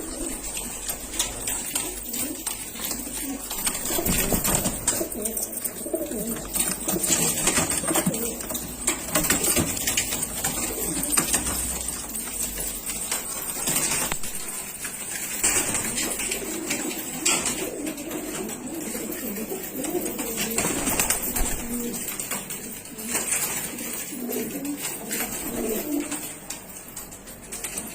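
Domestic pigeons cooing, many low calls overlapping throughout.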